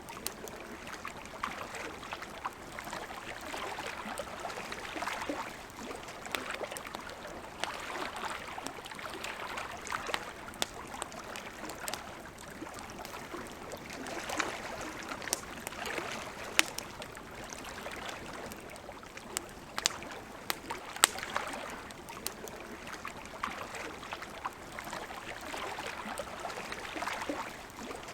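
Campfire crackling, with scattered sharp pops of burning wood, a few much louder than the rest. Underneath is a soft wash of lake water lapping that swells and fades every few seconds.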